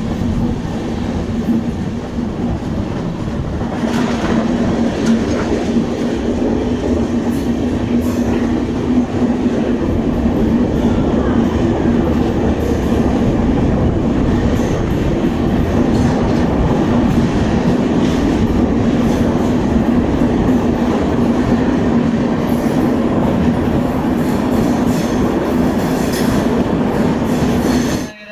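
Passenger train running at speed, heard from an open coach door: a loud, steady rumble of wheels on rail with a constant hum. It is louder through the middle stretch, where the train runs through a tunnel, and cuts off suddenly near the end.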